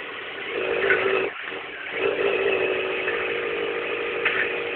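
Suzuki 1000 motorbike engine revving to spin-start a go-kart: the revs rise about half a second in, drop out briefly just after a second, then pick up again and hold steady.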